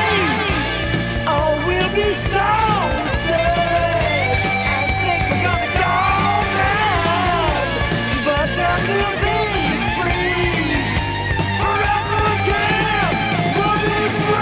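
Hard rock recording: an electric lead guitar bending and wavering notes over bass and drums.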